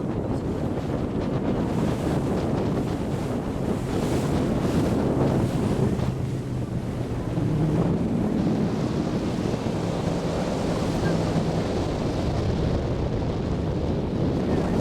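Wind buffeting the microphone on the deck of a moving tour boat, over the rush of water and a steady low hum from the boat's diesel engines.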